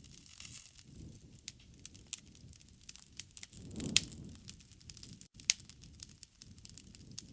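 Wood fire crackling, with scattered sharp pops over a low rush of burning. The rush swells about four seconds in with the loudest pop, and another strong pop follows a second and a half later.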